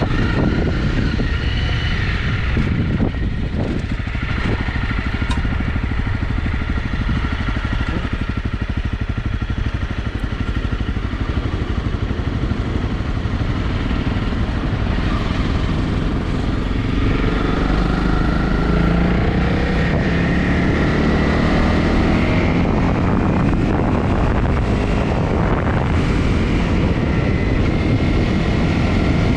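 Honda CRF250 single-cylinder four-stroke engine running under way, with wind noise on the microphone; a little past halfway the revs climb and it gets louder.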